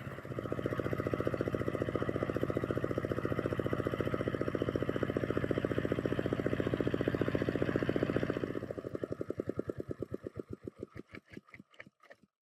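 Restored S1100 (D15) single-cylinder diesel engine running with an even, rapid firing beat. About eight and a half seconds in it is shut off, and the beats slow and spread apart until it stops just before the end.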